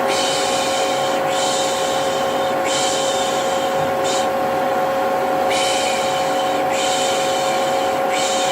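Vacuum cleaner running with a steady hum and whine, overlaid by a repeated 'shh' shushing, one long shush roughly every second and a half with a pause partway through: a baby-soothing shushing sound laid over vacuum noise.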